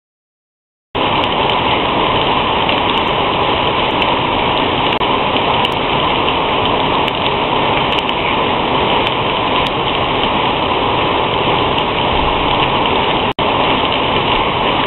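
Steady rain heard through a security camera's microphone. It starts abruptly about a second in as the camera's audio comes on, and drops out for an instant near the end.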